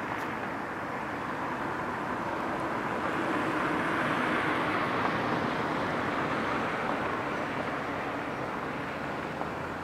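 Electric ducted fans of a radio-controlled Boeing 737 model jet in flight: a steady rushing whine that swells about four to five seconds in and then eases off as the model passes.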